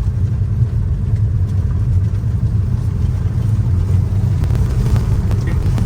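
A car driving, heard from inside the cabin as a steady low rumble.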